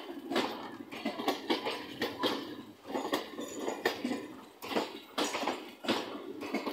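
Passenger train coaches passing close by, their wheels clacking sharply and unevenly over the rail joints, several metallic clacks a second.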